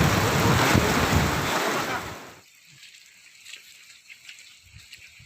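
Heavy rain and strong wind buffeting the microphone, a loud rushing noise that cuts off suddenly about two and a half seconds in, leaving only faint scattered patter.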